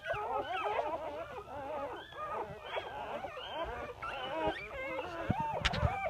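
A litter of chocolate Labrador puppies whimpering and squealing, many high, wavering calls overlapping without a break. A brief sharp knock sounds near the end.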